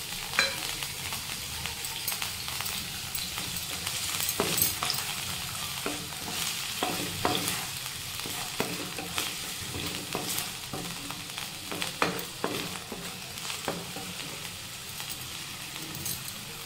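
Chopped potato sizzling in hot oil in a non-stick wok, stirred with a wooden spatula that scrapes and taps against the pan every second or so.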